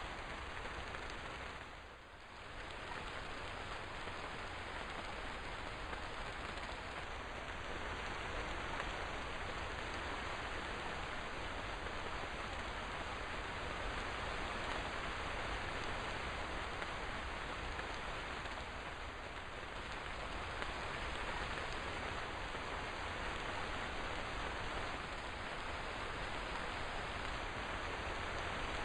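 Steady rain falling, an even hiss of many drops, briefly softer about two seconds in.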